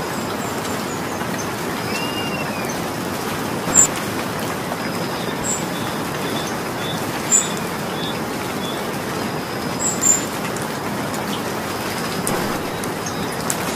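Steady rain falling, with three louder single drops striking close by, a few seconds apart.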